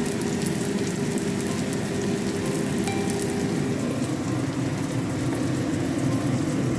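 Food sizzling and crackling steadily in hot oil in a pan.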